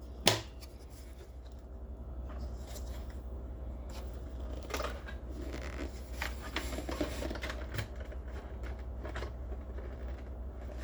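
Handling of a Shark Stratos stick vacuum's plastic dust bin while it is emptied, with the motor off: one sharp click just after the start, then light scattered clicks and rustling of plastic and debris.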